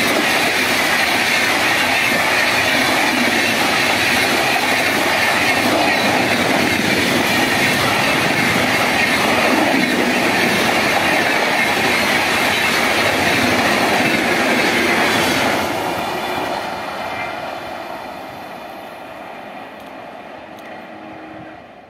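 Indian Railways express train's red-and-grey LHB passenger coaches passing close by at speed, with a loud steady rush of wheels on rail. About fifteen seconds in the last coach goes by and the sound falls away quickly, then fades steadily as the train runs off into the distance.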